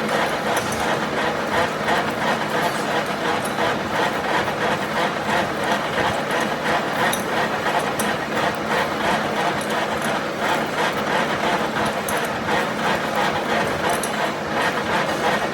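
A workshop machine running steadily, making an even mechanical noise with a fast fine ticking and no pauses.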